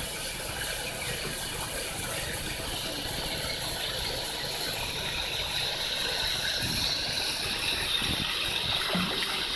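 Steady rushing of running water with a faint mechanical rattle under it, growing a little louder toward the end.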